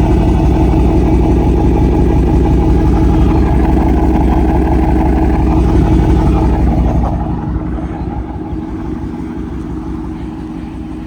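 Dodge Charger R/T's 5.7-litre Hemi V8 idling steadily through its aftermarket exhaust, with a deep, even burble. It is loudest for the first seven seconds, then drops to a quieter level.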